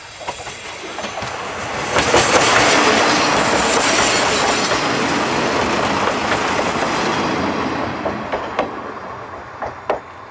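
A train passing by, building up to its loudest about two seconds in and fading away toward the end, with a few sharp wheel clacks over the rail joints near the end.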